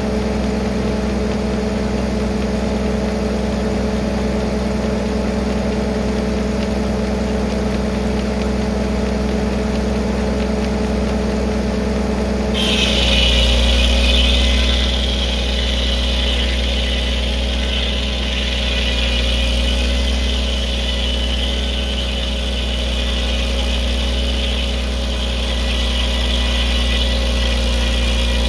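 1952 Farmall H's four-cylinder engine running steadily, driving a Corley circular sawmill. About halfway through, the saw blade starts cutting into a log: a loud high-pitched whine sets in suddenly and the engine note deepens under the load.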